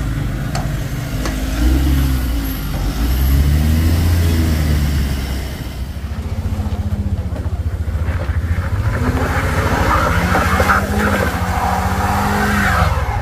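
Vehicle engines labouring up a loose dirt climb: first a Mitsubishi L300 pickup's engine pulling, then a small MPV's engine revving with rising pitch as its front wheels spin and throw dust, easing off just before the end.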